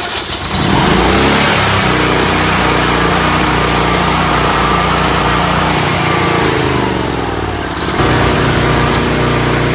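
Generac 17,500-watt portable generator's 30 HP V-twin engine running just after starting. Its speed rises in the first second and holds steady, sags about six seconds in, then picks back up about 8 seconds in. It is running on the fuel left in the carburettor, with the fuel valve shut off.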